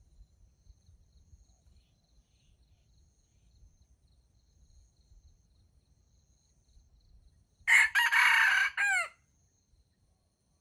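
A junglefowl rooster gives one short crow of about a second and a half, ending in a few falling notes, about three-quarters of the way through. Faint steady insect chirring sounds underneath.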